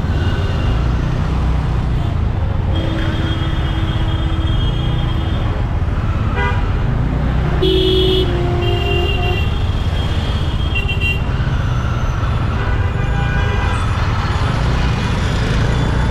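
Steady traffic noise and low rumble heard from a motorbike riding through city traffic, with vehicle horns honking several times: a long held horn blast about three seconds in, another around eight seconds in, and shorter toots near eleven seconds.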